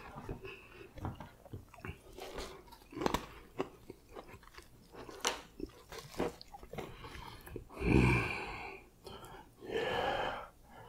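Close-miked chewing and mouth sounds of a person eating a biscuit, with many short clicks and smacks. A louder, deeper burst comes about eight seconds in.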